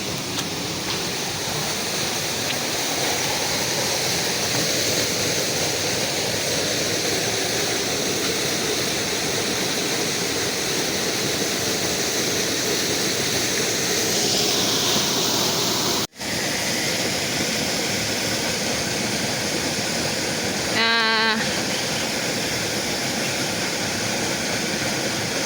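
Steady rushing of water, an even hiss with no let-up. A brief cut in the sound comes partway through, and later a short wavering pitched call.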